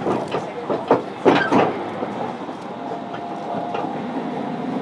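Interior running sound of a JR Kyushu 305 series electric train car under way: wheels knocking sharply over rail joints several times in the first second and a half, over a steady rumble. From about halfway a steady whine from the traction motor comes in.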